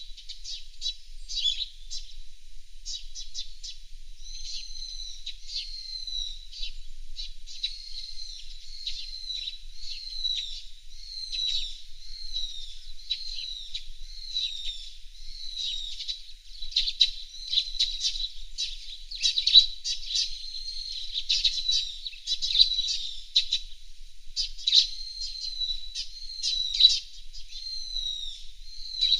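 Several small wild birds chirping and calling without pause: a busy mix of quick high chirps and repeated short whistled notes that slide downward.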